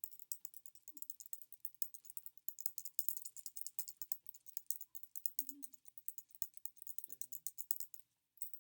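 A rattlesnake rattle being shaken: a fast, dry clicking rattle, broken briefly about two seconds in, then stopping near the end.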